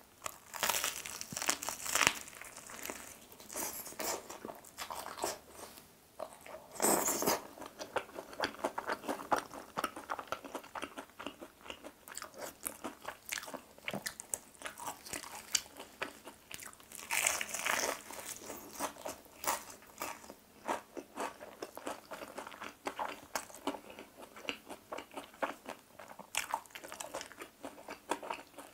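Close-up eating of a crispy fried chicken drumstick: the battered crust crunching under bites, then chewed with many small crackles, with a few louder bites spread through.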